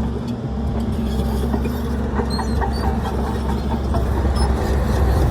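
Heavy earthmoving machinery at work: a large engine runs with a steady low hum, and scattered metallic clanks and clicks sound over it.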